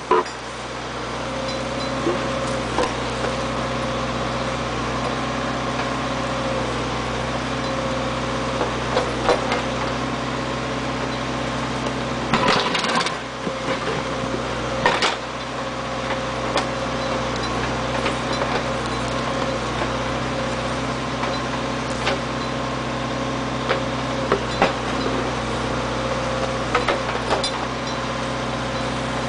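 Backhoe engine running steadily, with a few sharp knocks and clanks over it, the loudest about halfway through.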